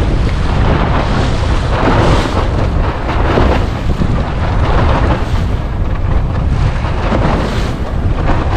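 Strong wind buffeting the microphone while water rushes and splashes against a sailing dinghy's hull as it rides over waves in gusty wind, with repeated surges of splash.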